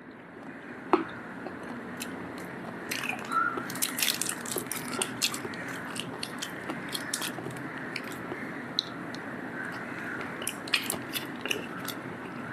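A person chewing and biting food close to the microphone, with many short, sharp, wet clicks scattered throughout.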